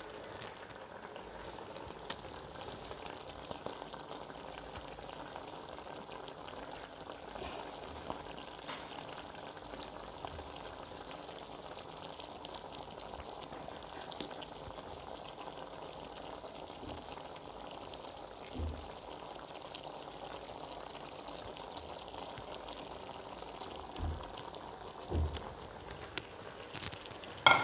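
Chicken pieces frying in oil in a karahi, a steady sizzle as sliced tomatoes and chillies are laid in. A few soft low thumps come in the second half.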